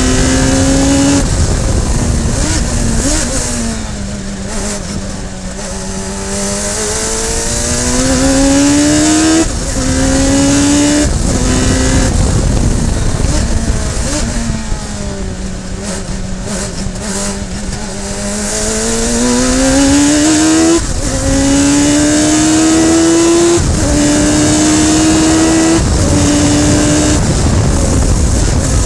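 Radical SR3 race car's motorcycle-derived four-cylinder engine at racing speed. It revs up through the gears, and its pitch drops sharply at each upshift. Twice it eases off and falls to a low note, about four to six seconds in and again in the middle, before climbing back up.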